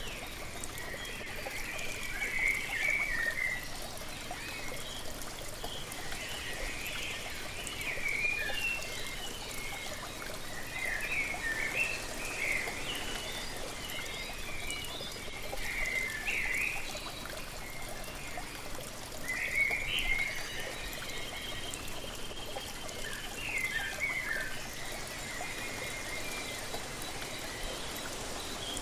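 Waterfall running steadily, with birds singing short chirping phrases every few seconds over it.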